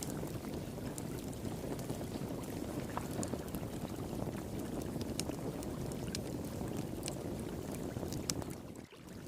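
Wood fire pit crackling, with sharp pops and snaps scattered throughout, over the steady low rush of flowing water. The sound briefly drops away just before the end.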